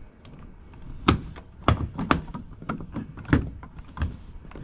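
Several sharp, irregularly spaced knocks and taps of metal hardware as bolts are fitted through a trolling motor mount on a boat's bow.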